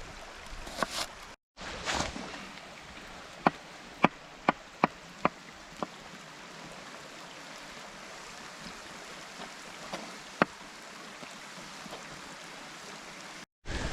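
Steady rushing of a mountain stream, with a run of six sharp pops or crackles over a couple of seconds starting about three seconds in, and one more near ten seconds.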